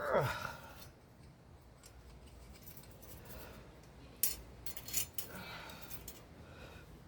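Metal hand tools working on car parts: a short falling squeak right at the start, then a few sharp metallic clicks and clinks spread over the later seconds.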